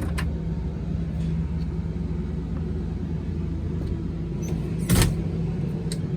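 A steady low mechanical hum, with a single knock about five seconds in.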